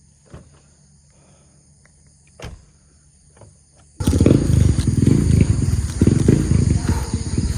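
Near silence with a few faint clicks, then suddenly, about four seconds in, loud gusty rumbling of wind buffeting the microphone.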